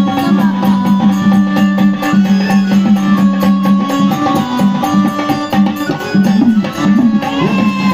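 Instrumental interlude in a Marathi gondhal devotional folk song: a hand-drum rhythm over steady held notes.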